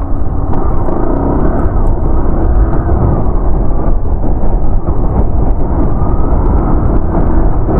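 Motorcycle riding over a broken, potholed road, its engine under a heavy, steady wind rumble on the microphone.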